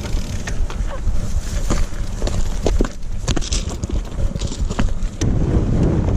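Wind buffeting the microphone, with scattered clicks and knocks, growing louder and heavier about five seconds in.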